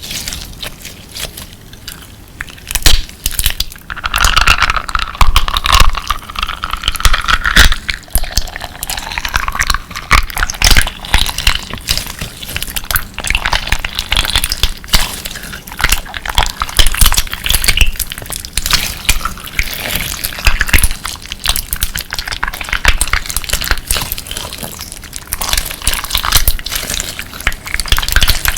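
Clear slime packed with crunchy crystal pieces being squeezed and pressed by hand, giving dense crackling and clicking throughout, with a squeaky, bending squelch between about four and nine seconds in.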